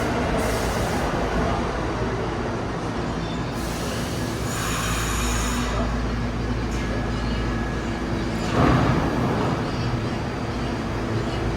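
New York City subway train running through the station with a steady rumble, a brief high-pitched wheel squeal about five seconds in, and a sudden loud bang about nine seconds in.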